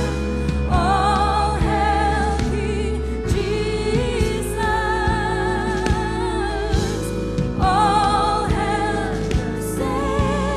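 Live worship band playing with a singer holding long notes with vibrato, over bass and drums.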